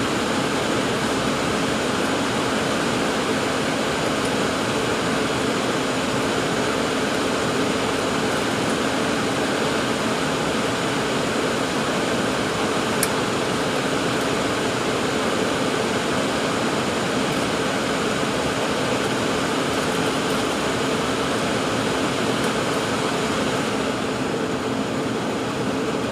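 Steady cabin noise inside an Embraer 195-E2 airliner: its Pratt & Whitney PW1900G geared turbofans and the cabin air conditioning run evenly, a constant rushing hiss with a steady low hum and a faint high whine through it.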